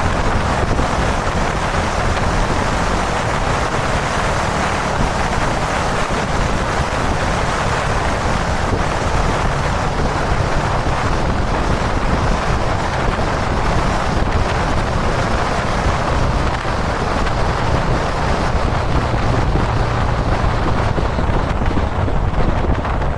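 Heavy wind rushing over the camera microphone at highway speed, with the Dominar 400's single-cylinder engine running steadily underneath at cruising speed.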